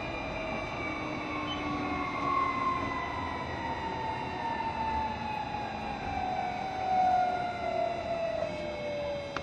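Onboard running sound of a JR Shikoku 7200-series electric train slowing down: the traction motors' whine, several tones together, falls steadily in pitch over the rumble of wheels on rail.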